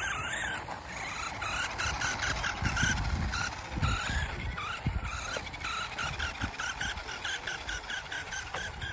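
Radio-controlled car's motor whining, its pitch rising and falling in quick bursts as the throttle is worked, over low rumbling bumps.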